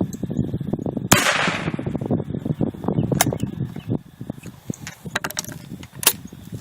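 .410 shotgun fired once about a second in, a sharp blast with a long noisy tail. A few sharp clicks and knocks follow.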